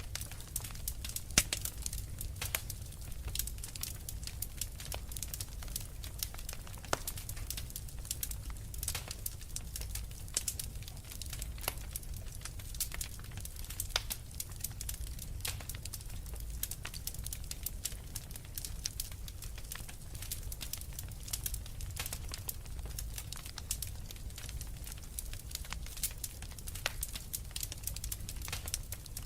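Wood fire burning in a fireplace: steady low rumble of the flames with dense, irregular crackles and snaps from the logs, a sharper pop about a second and a half in.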